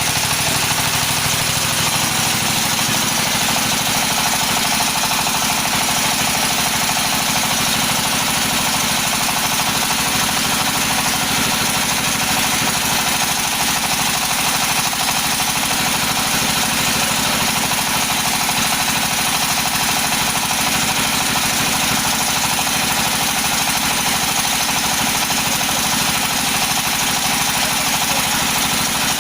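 Floating fish-feed pellet machine running steadily, a continuous even engine-driven machine sound with no change in pace.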